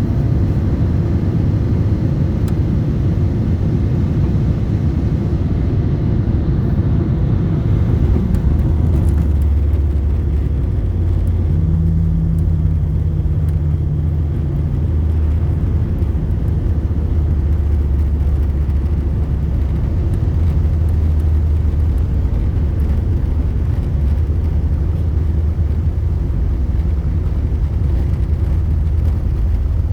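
Boeing 747-8 airliner noise: a steady, deep rumble with no sudden events.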